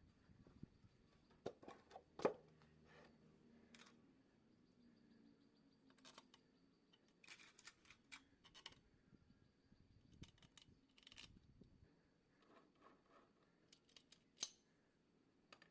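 Scattered faint clicks and light clinks of small engine parts and tools being handled. The sharpest comes about two seconds in and another near the end.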